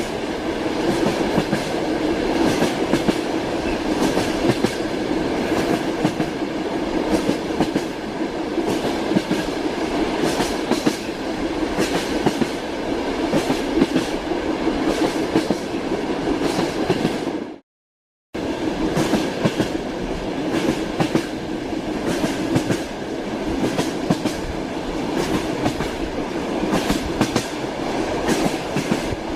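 Train wheels clacking over the rails with the steady rumble of a moving railway carriage. About two-thirds of the way in, the sound cuts out completely for under a second, then resumes.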